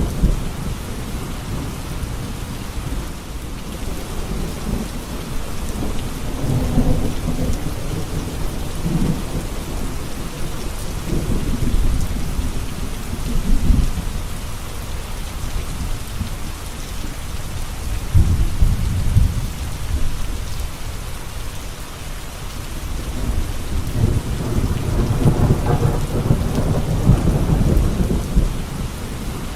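Steady rain falling, with low thunder rumbles that swell and fade several times.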